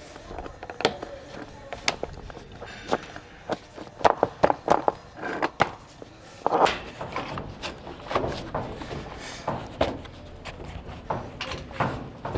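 Irregular knocks and clatter of plumbing pipes and fittings being handled, with a quick run of knocks about four seconds in.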